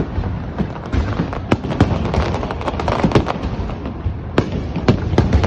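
Fireworks display going off: rapid sharp bangs of aerial shells several times a second over a continuous crackle.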